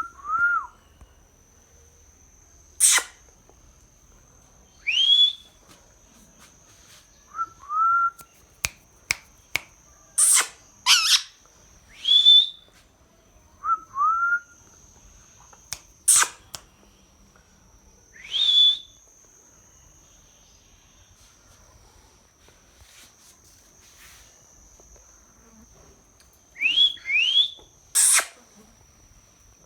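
A parrot calling and whistling in separate outbursts a few seconds apart: pairs of short rising chirps, longer rising whistles, and sharp, sudden shrieks. A faint, steady high tone runs underneath.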